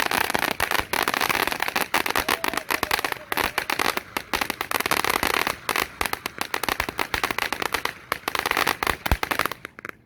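'Brain Freeze' consumer firework crackling: a dense, rapid stream of sharp pops that stops abruptly near the end.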